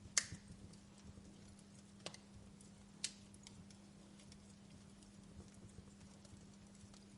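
Fire crackling: a sharp pop just after the start, two more about two and three seconds in, and scattered faint ticks between.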